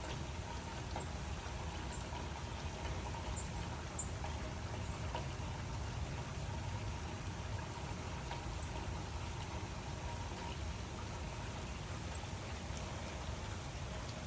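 Steady rain falling, an even hiss with scattered single drops ticking now and then.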